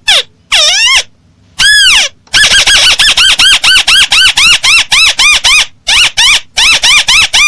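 Crake (burung tikusan) call played as a bird-trapping lure: two single arched squealing notes, then a fast, even run of short rising-and-falling notes, about four a second.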